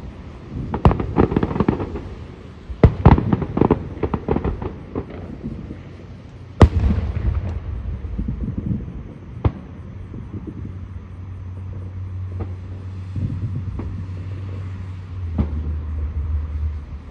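Aerial fireworks going off: crackling volleys of bangs in the first few seconds, one loud boom about six and a half seconds in and a lighter bang a few seconds later. From about ten seconds on, a steady low hum runs underneath.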